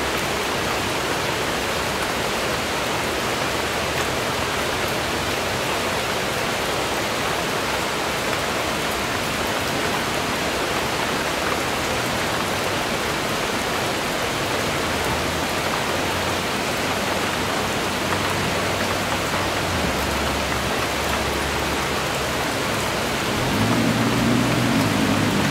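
Steady rain falling, an even hiss with no break. Near the end, low sustained musical notes come in under the rain.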